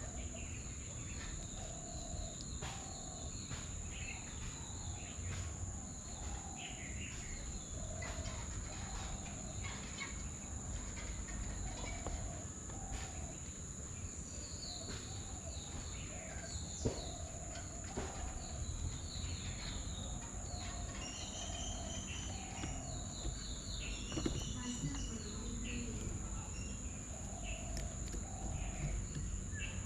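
Several birds calling: short high chirps and trills come and go, and short lower calls repeat about once a second. Under them runs a steady high insect drone and a low rumble of background noise.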